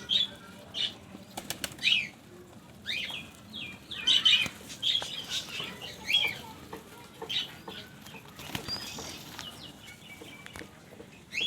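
Pigeons' wings flapping as they take off and land, with short high bird chirps scattered throughout.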